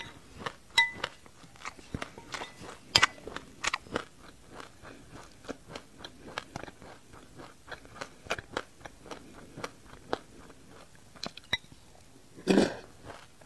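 Close-up chewing of a mouthful of sesame seeds with passion fruit pulp: a steady run of small crisp crunches. A metal spoon clinks briefly on the glass bowl about a second in, and a louder bite comes near the end.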